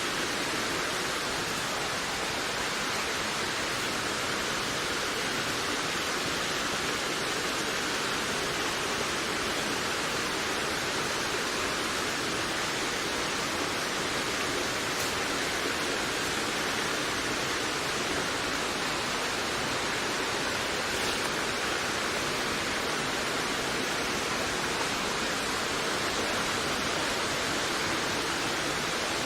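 Steady rushing wind, an even hiss with no gusts, breaks or other events.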